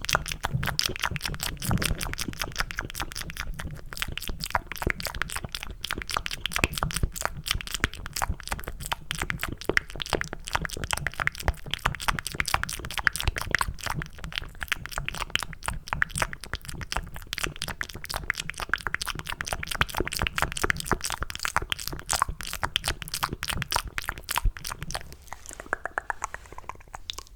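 Close-miked ASMR mouth sounds, cupped by the hands: a dense, rapid run of wet, sticky clicks and smacks meant to sound like eating mac and cheese. They thin out near the end.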